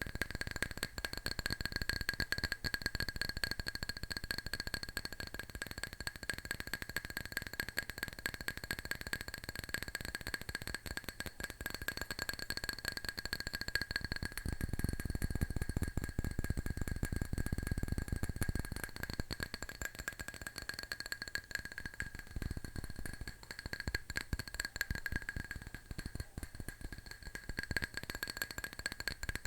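Fingernails tapping fast on a hard object: a dense, unbroken patter of clicks with a steady ringing tone over it.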